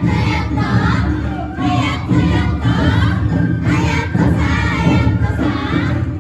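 Awa Odori procession music, drums and gongs beating under a group of dancers chanting and shouting calls together.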